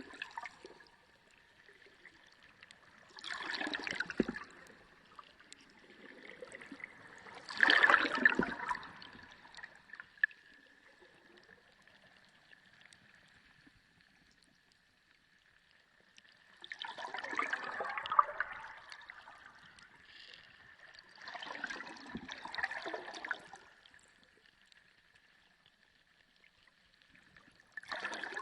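Underwater sea sound: surges of gurgling, sloshing water come and go every few seconds, each lasting a second or two. A faint steady high tone runs underneath.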